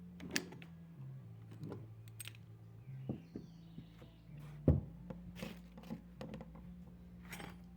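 Small metallic clicks and knocks of screws being handled and fitted into a washing-machine gearbox housing, with one louder knock a little past halfway, over a steady low hum.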